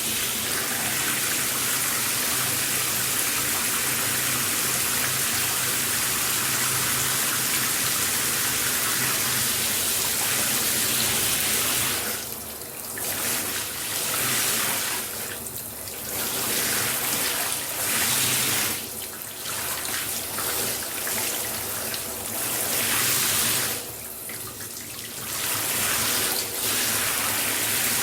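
Shower running, a steady hiss of water spray. In the second half the hiss drops away briefly several times and comes back.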